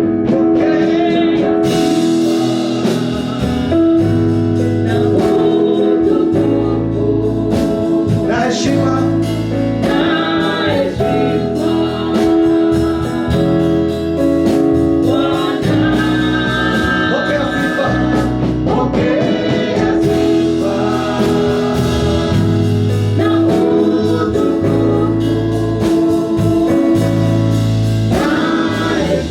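Gospel praise and worship music: singing over steady sustained chords and a bass line.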